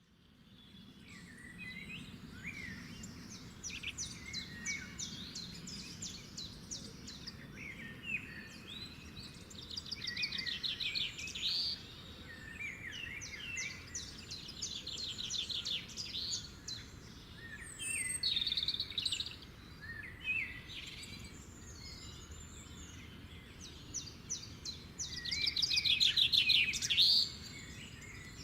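Songbirds singing in spring woodland: several overlapping songs of fast trills and chirps, loudest near the end.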